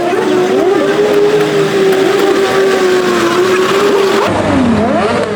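Motorcycle engine held at high, steady revs, then the revs drop and climb again in quick glides near the end.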